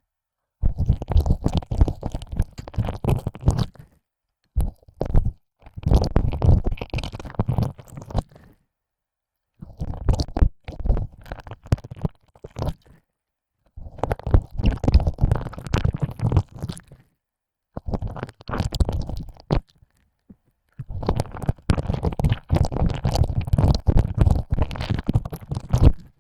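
Close, wet tongue sounds of ear licking: a tongue pushed in and out of an ear hole, in spells of squelching and crackling a few seconds long broken by short silences.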